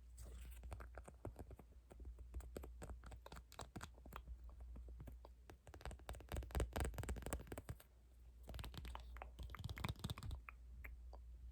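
Close-miked tapping and scratching on small objects: a dense, irregular run of small clicks, busiest in the second half and thinning out near the end, over a steady low hum.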